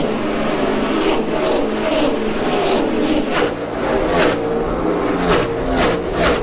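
NASCAR Cup stock cars' V8 engines running at racing speed, their pitch shifting, with a rapid series of short sharp surges of noise as cars rush past.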